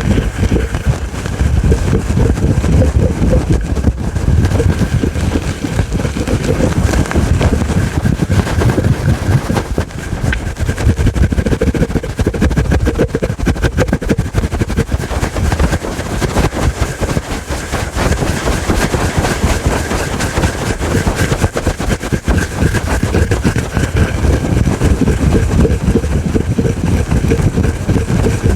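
Fast, aggressive scratching on a fluffy furry microphone cover, a continuous dense rasping over a deep rumble from the fur rubbing right at the mic.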